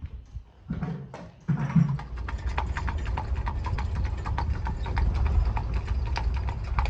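Tennessee Walking Horse's hooves clip-clopping in a quick, steady run of hoofbeats over a low rumble. The hoofbeats begin about two seconds in, after two short louder low sounds.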